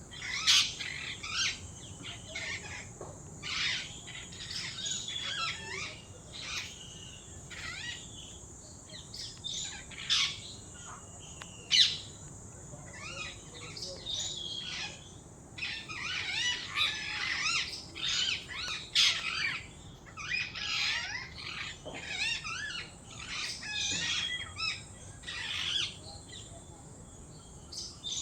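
Several wild birds chirping and singing, a busy chorus of short overlapping calls and trills.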